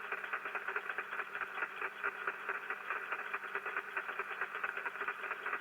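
Rain static (QRN) on an HF receiver fed from a Yagi antenna: a dense, fast crackling hiss heard through the receiver's narrow audio passband, made of many rapid clicks from the static discharges.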